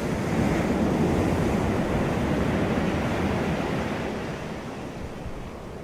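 Ocean surf rushing on a beach, the sound of a wave washing in and then dying away over the last two seconds.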